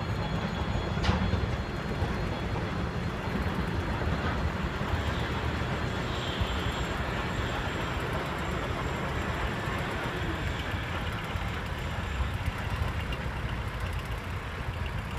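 Locomotive running in reverse along the track, a steady low rumble with a brief sharp click about a second in.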